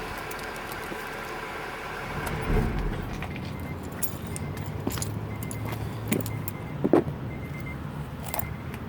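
2005 Acura TL's V6 on its stock exhaust settling back to idle after a rev, its low exhaust rumble fading out about three seconds in. A few sharp clicks follow near the end.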